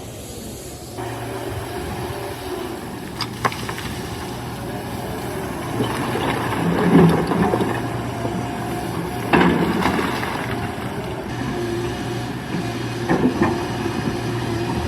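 Excavator's diesel engine running steadily, with louder swells of working noise a few times and a couple of sharp knocks.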